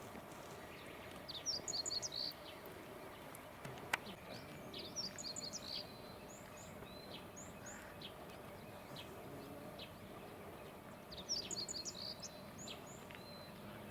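A small songbird singing, three short phrases of rapid high notes with scattered single chirps between, over a steady outdoor background hum; a single sharp click about four seconds in.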